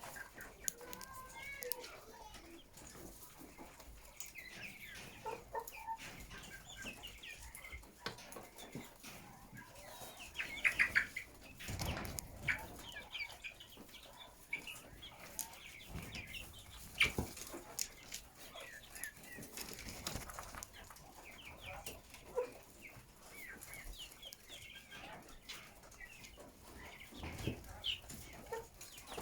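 A flock of chickens clucking and calling, many short overlapping calls, with a few sharp knocks here and there.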